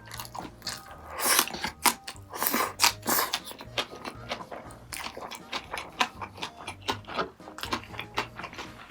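Close-miked eating: biting and chewing with wet, crunchy mouth sounds in quick irregular clicks and smacks, loudest between about one and three seconds in.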